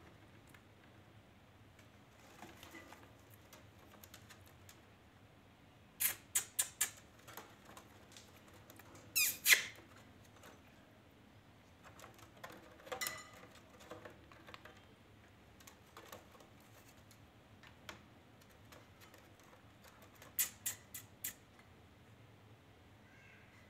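Parrot giving short, high-pitched squeaky chirps in quick groups of about four, with one louder screech about nine seconds in and a shorter call around thirteen seconds.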